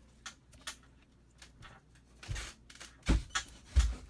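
Close handling noises: scattered light clicks and rustles, with three short dull thumps at about two, three and nearly four seconds in.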